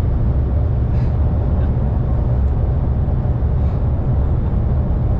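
Steady low rumble of a heavy truck driving at speed, heard from inside the cab.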